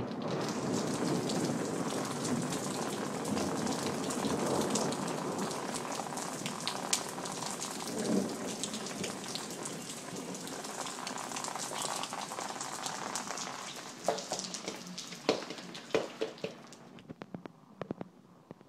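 Heavy rain pouring steadily on hard surfaces. About fourteen seconds in it thins to separate, scattered drips that fade away.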